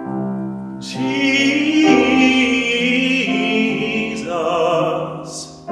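A classically trained solo voice singing long held notes with vibrato in a hymn, over instrumental accompaniment.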